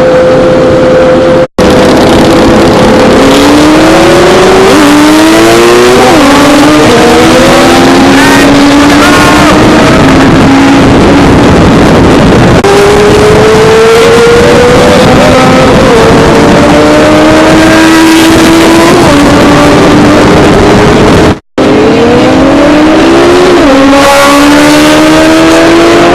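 Several sport motorcycles running hard, their engine notes climbing in pitch and dropping back at each upshift again and again. The sound cuts out completely twice for an instant, about one and a half seconds in and again near the end.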